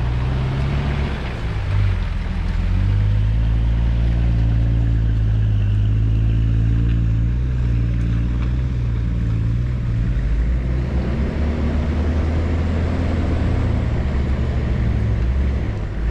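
Four-wheel-drive vehicle's engine running at low speed on a rough track, its engine note shifting a couple of times as the throttle changes.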